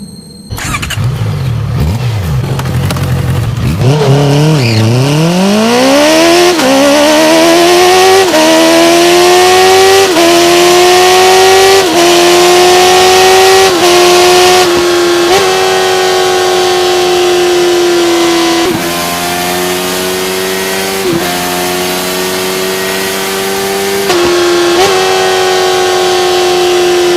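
Honda CBR650F inline-four engine through an aftermarket exhaust, accelerating hard. Its pitch climbs steeply from about four seconds in, then stays high with a short dip at each quick upshift.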